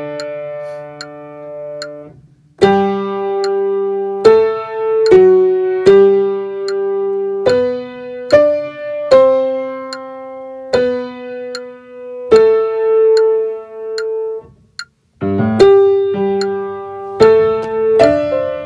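Piano playing a slow hymn tune in held two- and three-note chords, each struck and left to ring, with two short breaks in the playing.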